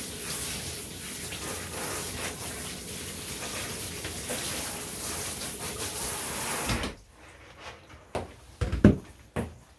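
Water spraying steadily from a bath sprayer, stopping abruptly about seven seconds in, followed by a few sharp knocks in the tub.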